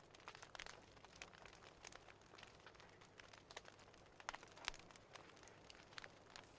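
Faint crackling of a wood fire: irregular small pops and snaps over a low hiss, one a little louder about four and a half seconds in.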